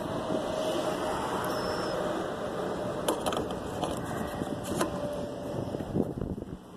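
Steady hum and hiss of a gas station fuel dispenser, with a couple of sharp clicks about three and five seconds in; the hum dies away near the end.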